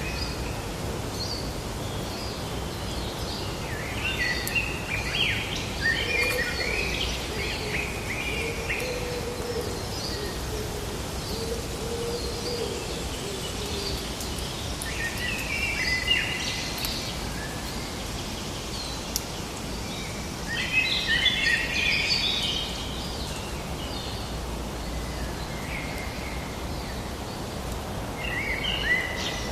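Forest ambience: birds singing in bursts of quick chirps over a steady background hiss. A lower, wavering call runs underneath for several seconds early on.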